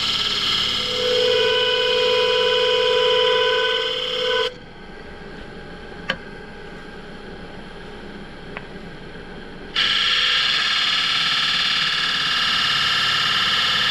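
Woodturning gouge cutting a thin poplar shell on a running wood lathe, with a steady pitched ringing during the first few seconds. The cutting stops about four and a half seconds in, leaving the lathe's quieter hum and two sharp clicks, and starts again near ten seconds.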